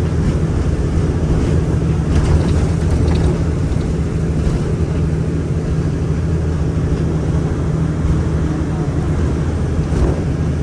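Moving city bus heard from inside the cabin: a steady low engine drone and road rumble, with a few faint rattles about two to three seconds in.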